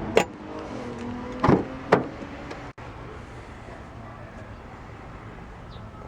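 Three clicks and knocks from the car's doors and panels being handled, with a faint creak between them, then a steady low background hiss.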